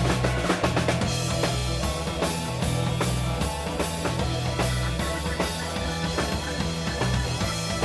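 Live rock-and-roll band playing an instrumental passage: drum kit keeping a steady beat with bass, guitar and keyboard.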